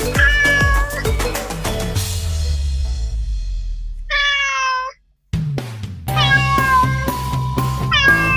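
Kittens meowing over background music with a steady drum beat. The music fades out about two seconds in, leaving a single clear meow. After a brief drop to silence, the beat and the meows start again.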